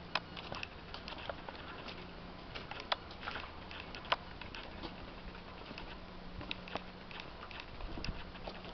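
Irregular light pattering of water drips and small splashes, scattered sharp ticks over a constant wet background, with a faint steady hum underneath.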